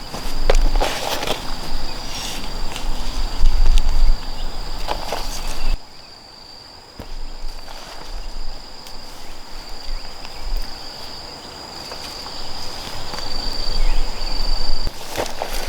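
Insects trilling as one steady high drone, with rustling, footsteps and a few sharp clicks in the first few seconds and again near the end; the background drops abruptly about six seconds in.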